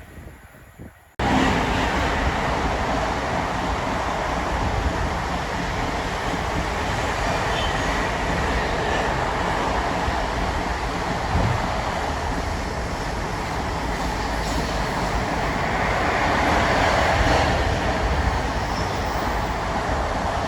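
Steady rumble and rush of a train running on the rails, cutting in abruptly about a second in and swelling slightly near the end.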